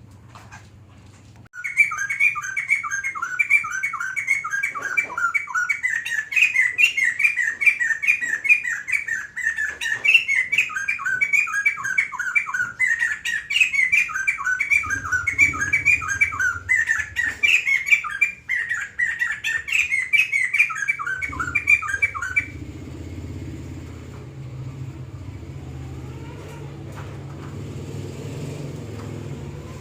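White-crested laughingthrush singing a long, loud run of rapid repeated notes. It starts about a second and a half in and stops abruptly about twenty-two seconds in, leaving a low rumble.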